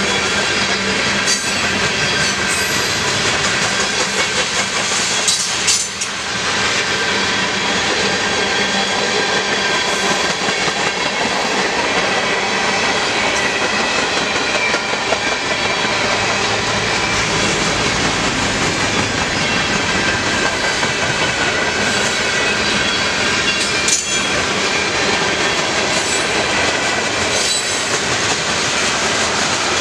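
Mixed freight train's boxcars, tank cars and covered hoppers rolling past: steady rumble and clatter of steel wheels on the rails, with a faint high ringing and a few sharp clanks.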